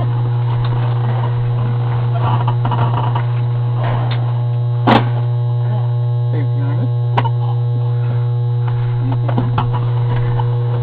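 Loud steady electrical hum in the recording, with faint, indistinct voices underneath. A sharp click comes about five seconds in and a smaller one about two seconds later.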